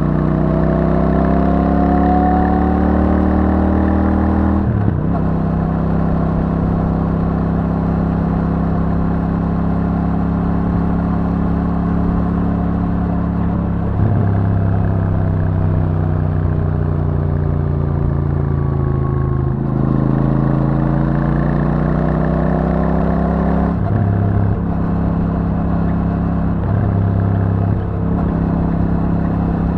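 Royal Enfield Super Meteor 650's 648 cc parallel-twin running through its stock exhaust while riding. The note climbs for the first few seconds and breaks sharply about five seconds in. It holds steady, then sags slowly, cuts off again at about twenty seconds and climbs once more.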